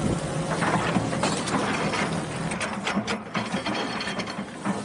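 Tracked hydraulic excavator at work: a steady low engine drone under quick rattling and clanking as the arm swings the bucket down into the ground.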